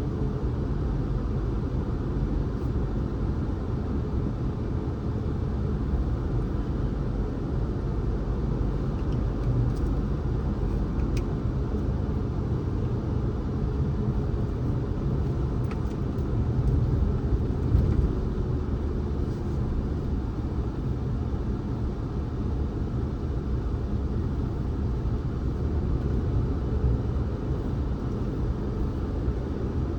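Steady low rumble of a car driving along a road, engine and tyre noise together, swelling briefly a little past halfway.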